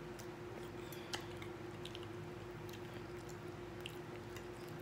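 A person chewing food, with a few faint scattered clicks over a steady faint hum.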